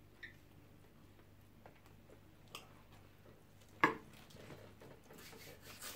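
Close-up eating sounds of a person chewing jollof rice and chicken: a few faint mouth clicks, a sharp click just before four seconds in as a handful goes into the mouth, then a run of quick chewing sounds.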